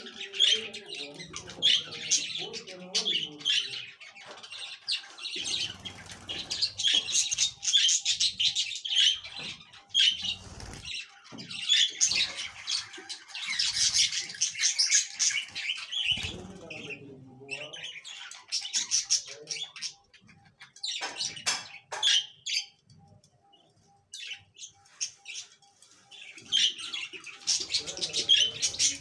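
Birds calling: rapid high chirps in dense runs, thinning out for several seconds past the middle before picking up again near the end.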